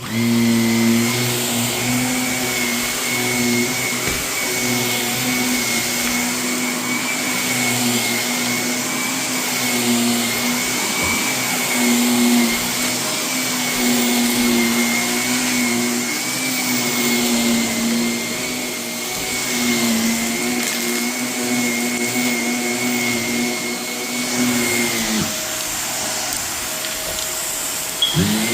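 Vacuum cleaner switching on and running steadily with a high whine, crunching as it sucks up renovation debris, metal bits included, from the carpet. Its whine drops out about 25 seconds in and its pitch climbs back near the end.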